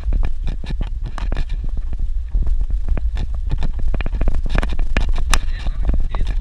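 Vehicle driving over a rough dirt road: a steady low rumble with frequent knocks and rattles as it bounces along.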